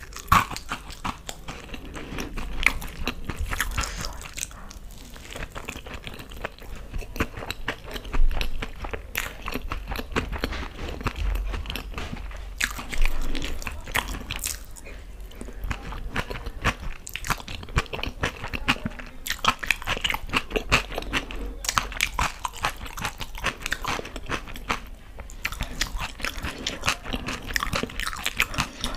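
Close-miked ASMR eating: biting and chewing fried pakoras coated in green chutney, a steady run of crisp crunches with a few louder bites.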